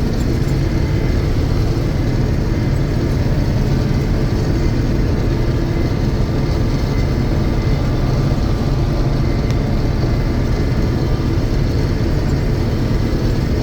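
1982 John Deere 6620 Turbo combine running steadily while harvesting soybeans: a constant, loud mix of turbocharged diesel engine and threshing machinery that does not change.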